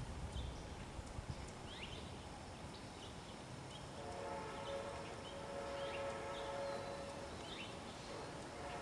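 Faint, distant train horn: a steady chord of held tones that comes in about four seconds in and holds. Short high bird chirps sound here and there throughout.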